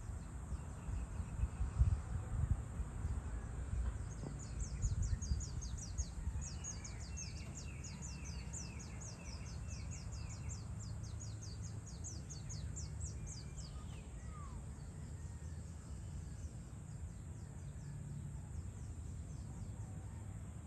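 Birds calling outdoors: a fast run of short, high chirps, about four a second, lasting some ten seconds from a few seconds in, with a briefer lower series among them. A steady low rumble runs underneath, stronger at the start.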